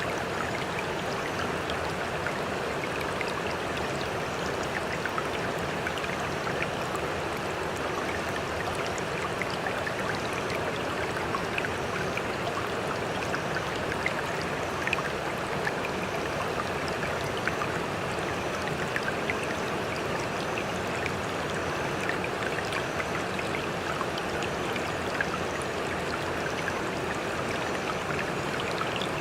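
Sea water splashing and washing steadily, with many small sharp droplet-like splashes scattered through it and no rise and fall of breaking waves.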